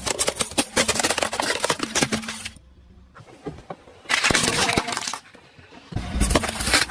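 Crunching and crackling of brittle objects being crushed under a car tyre, made of many sharp cracks. It comes in three bursts with short quiet gaps between them, and a low rumble sits under the last burst.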